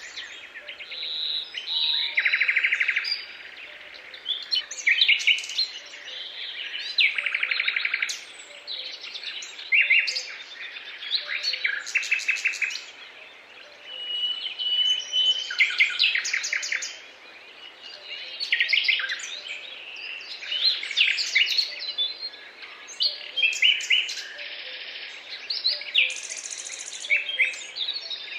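Birds singing in a dense dawn-chorus-like mix: overlapping varied song phrases, fast trills and rapid chirps following one another without pause.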